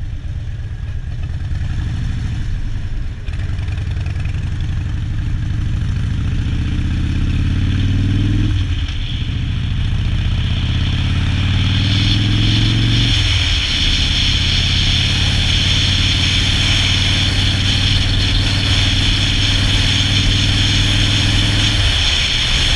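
2012 Harley-Davidson Dyna Street Bob V-twin running through Vance & Hines 2-into-2 pipes with a Screamin' Eagle Heavy Breather intake, pulling up through the gears. The engine note rises and drops with an upshift about eight seconds in, rises and drops again with another shift about five seconds later, then holds steady at cruise and eases off near the end. Wind noise on the microphone builds as speed rises.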